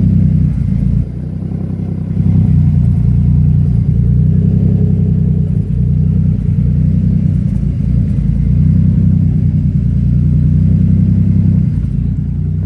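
Turbocharged 3.7-litre V6 of a 2011 Ford Mustang idling steadily, its level dipping briefly about a second in.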